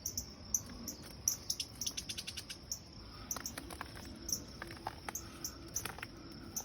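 Insects chirping in a fast, steady pulse, with short bird chirps scattered over it and a quick run of chirps about a second and a half in.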